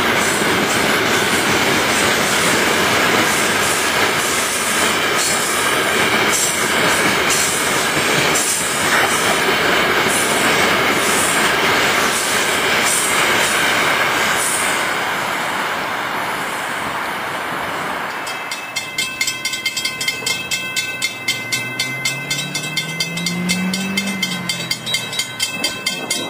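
Freight cars rolling past, a steady loud rumble and rattle of wheels on rail. About 18 seconds in this gives way to a railroad grade-crossing bell ringing in fast, even strikes, with a low tone that rises and falls under it.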